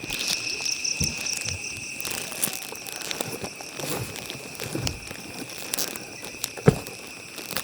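Crickets trilling steadily in one high continuous tone, with a faster pulsing chirp over the first two seconds. Scattered crackles and knocks sound over the top, and a sharp knock near the end is the loudest.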